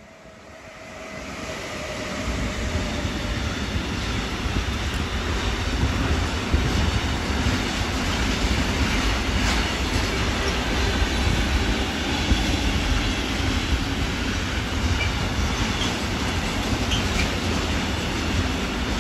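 Electric-hauled intermodal freight train carrying lorry trailers passing close by. It swells over the first two seconds as the locomotive and first wagons arrive, then runs as a steady, heavy rumble of wagon wheels on the rails.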